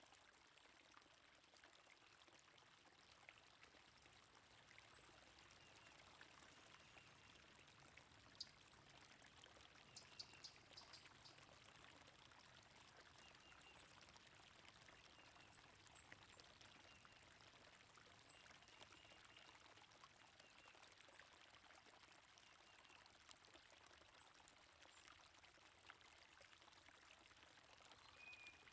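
Faint, steady flow of stream water with small birds chirping now and then. There is a short flurry of chirps about ten seconds in.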